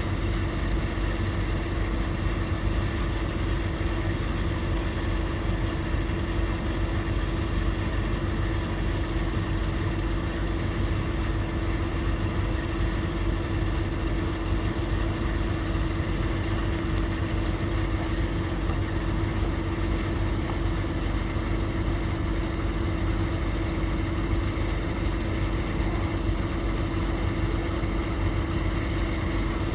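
An engine running steadily at a constant pitch, with an unchanging hum.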